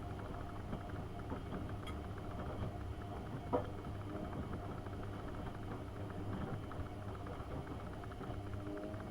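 AEG Öko-Lavamat 72520 washing machine running mid-cycle: a steady motor hum from the turning drum with light clicking, and a brief clack about three and a half seconds in.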